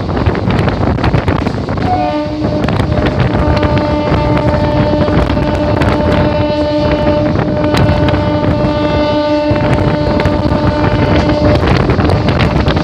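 Wind rushing past the open window of a moving electric local train, with the wheels clicking over the rails. From about two seconds in, a steady whine with several pitches runs under the rush and fades near the end.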